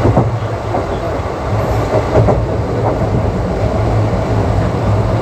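Indian Railways ICF passenger coach running along the track: a steady rumble of wheels on rail with a low hum, broken by a few sharp clicks as the wheels cross rail joints.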